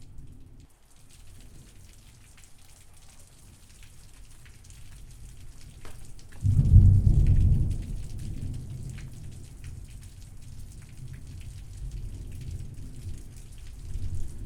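Thunderstorm: steady rain with a low rumble of thunder, and a loud thunderclap about halfway through that rolls on and slowly fades, with another swell of rumbling near the end.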